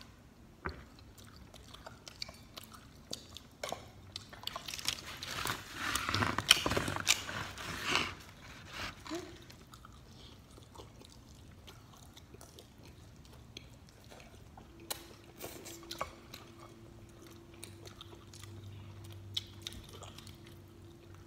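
People chewing and biting pizza, with scattered small clicks and knocks of handling at the table. A louder noisy stretch comes between about five and eight seconds in, and a faint steady hum starts near the end.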